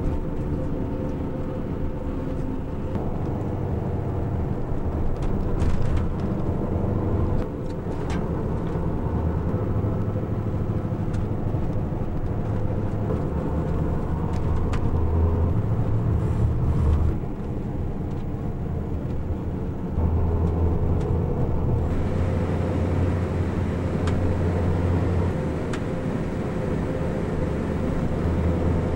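Steady low engine and road noise of a moving road vehicle, with a few shifts in level along the way.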